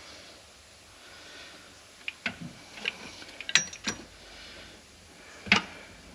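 About six sharp, separate clicks and knocks of hand tools and metal parts being handled during engine work, spread over a few seconds, the loudest two a little past the middle and near the end.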